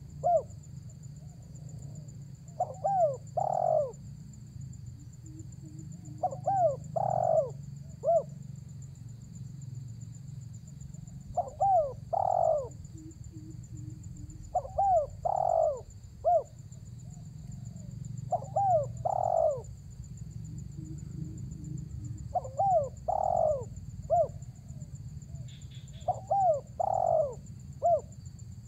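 Spotted dove (tekukur) cooing its repeated call phrase about every four seconds. Each phrase is a couple of quick rising-and-falling coos, then a longer coo and a short last note. A faint steady high thin whine and a low rumble run underneath throughout.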